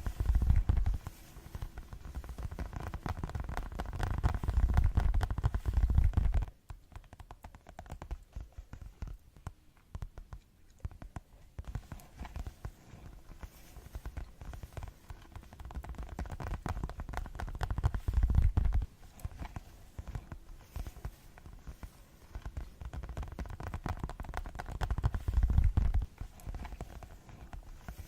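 Fast ASMR fingertip tapping: a dense, rapid run of taps. It is heavier, with deep thumps, at the start, about two-thirds in and near the end, and lighter and quieter in between.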